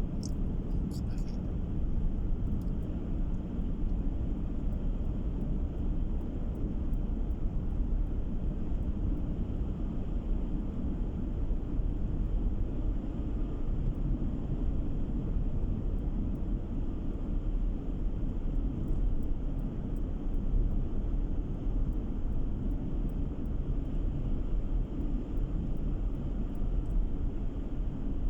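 Car driving along at steady road speed, a continuous low rumble of tyre and engine noise heard from inside the cabin.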